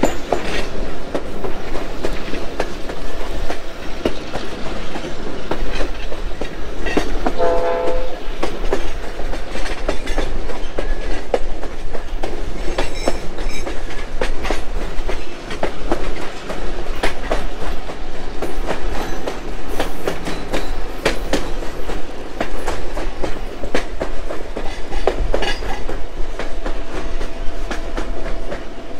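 Passenger train running along the track as heard from beside an open coach, with a steady rolling rumble, irregular clacking of the wheels over rail joints, and wind on the microphone. About seven and a half seconds in, a brief pitched tone sounds over it.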